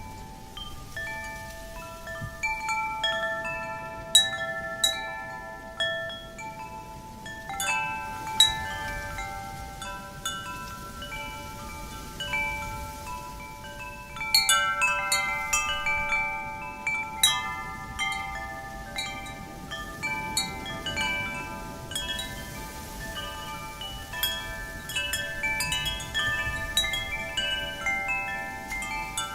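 Wind chimes ringing, struck irregularly by the wind, their tones overlapping and ringing on, with busier flurries of strikes now and then, over a faint wind hiss.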